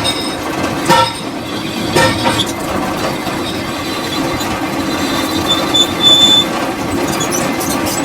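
Metal lathe running with a steady hum while machining a steel roller, with sharp metallic knocks about once a second in the first two seconds and a brief high metallic squeal of metal on metal around the middle.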